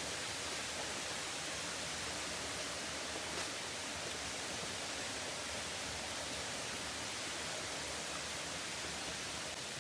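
Steady rushing of water from a waterfall, an even hiss with no breaks.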